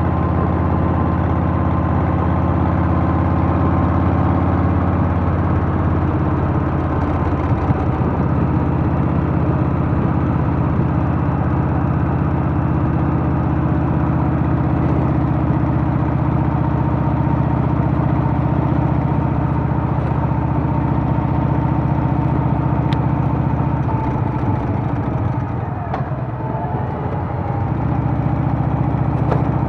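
Harley-Davidson Softail's Milwaukee-Eight V-twin engine running steadily while riding. Near the end it eases off for a couple of seconds, then picks back up.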